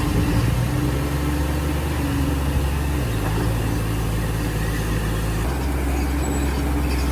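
Heavy diesel earthmoving machine's engine running steadily, its note shifting lower about three seconds in and changing again about two seconds later as the load or throttle changes.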